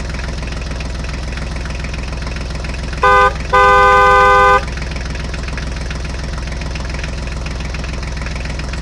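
Tractor engine running steadily with an even chug, and a horn sounding twice about three seconds in: a short toot, then a longer one of about a second.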